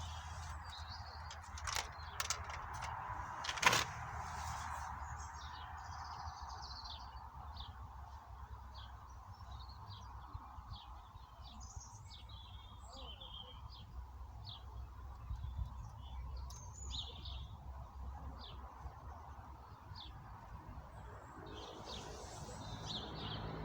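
Birds chirping in short, scattered calls over a steady background hum, with a sharp knock about four seconds in and a few fainter clicks before it.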